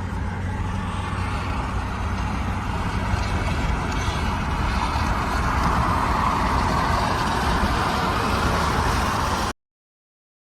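Steady road and engine noise of a car driving at speed, with a strong low hum, growing a little louder midway. It cuts off abruptly to silence about nine and a half seconds in.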